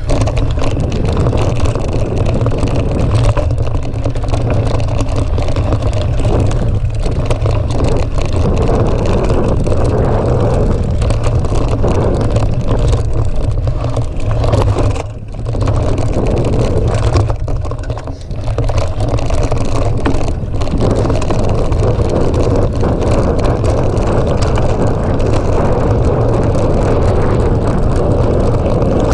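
Steady, loud rumble and rushing noise of a mountain bike ride: wind on the microphone and tyres rolling over the trail. It drops off briefly twice around the middle.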